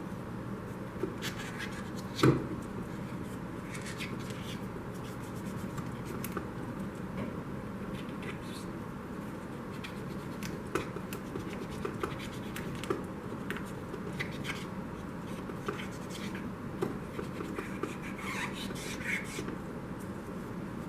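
Hands handling small parts and tools: scattered light clicks, scrapes and rubbing, with one louder knock about two seconds in, over a steady low hum.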